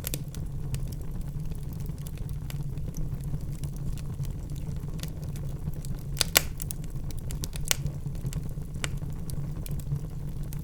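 Wood fire burning in a fireplace: irregular sharp crackles and snaps over a steady low rumble of the flames, with a couple of louder pops a little past the middle.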